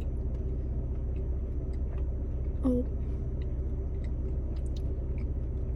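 Car engine idling as a steady low hum, with the soft chewing and small clicks of someone eating.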